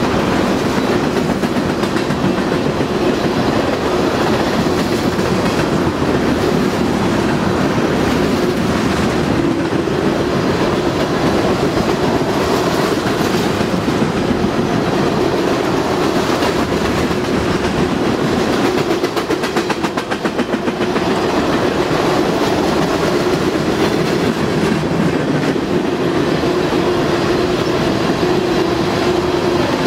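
Empty railroad tank cars of a freight train rolling past close by: a steady, loud rumble of steel wheels on the rails with quick, repeated wheel clicks.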